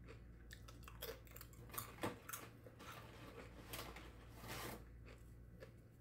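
Faint chewing and mouth sounds from a person eating, with scattered small clicks and a few louder crunches about one and two seconds in.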